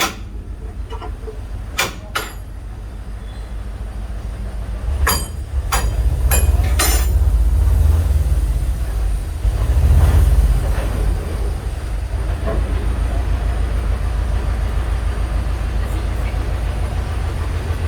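A train running past with a low rumble that builds about five seconds in and is loudest a few seconds later, marked by a cluster of sharp clicks as it grows, then settling into a steady rumble.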